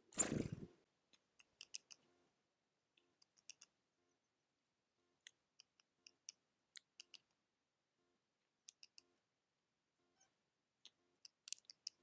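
A thump in the first second, then faint, scattered sharp clicks and ticks of small animals feeding at a feeding place.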